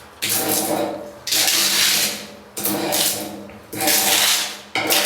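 Bubbling, damp-blistered paint being scraped off a plastered wall in five strokes about a second apart. Each scrape starts sharply and tails off. The blistering is a sign of rising damp in the wall.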